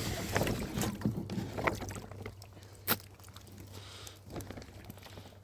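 Water sloshing and splashing amid handling noises, with a single sharp knock about three seconds in.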